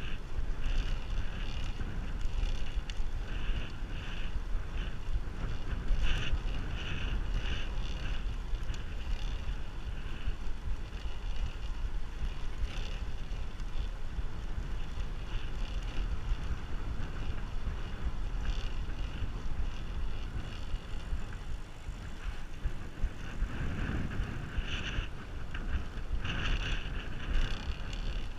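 Wind buffeting the microphone of a camera riding along on a moving bicycle, a steady low rumble with rushing road and tyre noise that swells and fades every few seconds.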